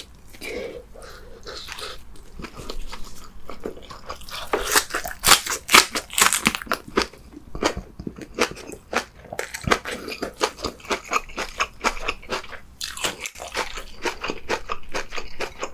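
Close-miked chewing of a mouthful of leafy kimchi wrapped around rice: a steady run of crisp, wet crunching bites, loudest and densest about five to seven seconds in.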